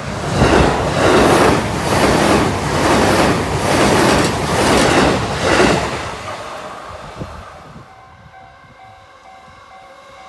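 JR East E233-series electric train passing at speed, its wheels clattering over the rail joints in a steady rhythm of surges a little under a second apart, fading away after about six seconds. A level-crossing warning bell then rings faintly in a repeating tone.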